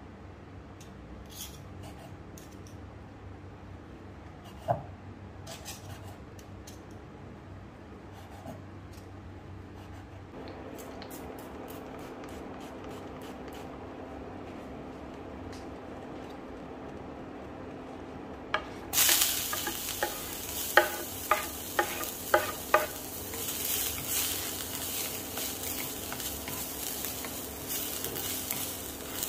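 Chopped garlic and ginger sizzling in hot oil in a cast iron skillet. The sizzle starts suddenly about two thirds of the way in as the food goes into the pan, with a quick run of sharp knocks from the spatula against the pan. Before that there are only faint light taps and a steady low hum.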